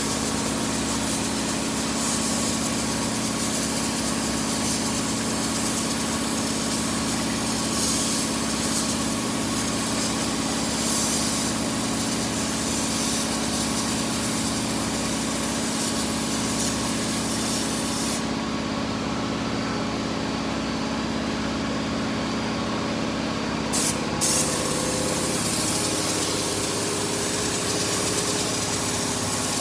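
Spray gun hissing as it sprays gel coat, over a motor running steadily. About two-thirds of the way through the hiss stops for several seconds, then starts again after a couple of short clicks.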